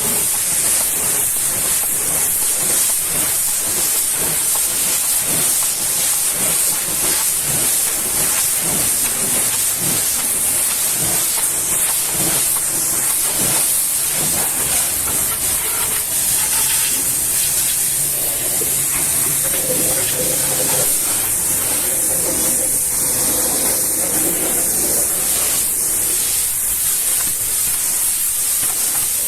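High-pressure washer jet spraying water against a vehicle: a steady, loud hiss.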